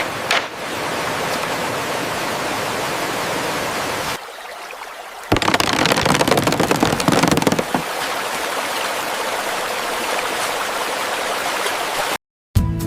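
Steady rushing noise with no tones. It thins to a quieter hiss for about a second, four seconds in, and cuts to silence briefly near the end.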